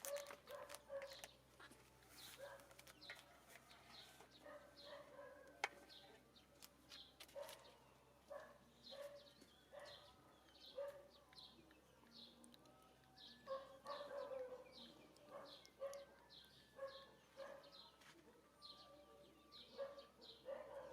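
Faint birds chirping: many short, high, falling chirps repeating throughout, with some lower clucking notes.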